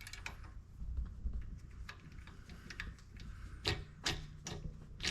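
Sharp clicks and light knocks from the compressor's air dryer parts being handled and fitted into place. A few come early, then a quicker run of them in the last second and a half.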